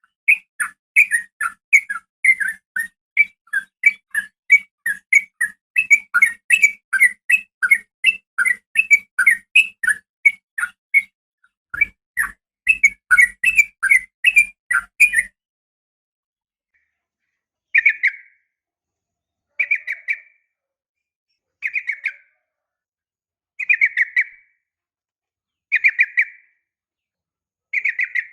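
Yellow-vented bulbul calling: a long run of fast, chattering bubbly notes for about fifteen seconds, broken by a brief pause, then after a few seconds of silence short bursts of notes about every two seconds.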